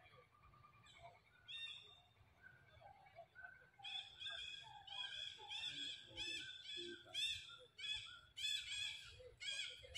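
A bird calling: a couple of single chirps, then from about four seconds in a quick, steady run of repeated high chirping calls, about two a second.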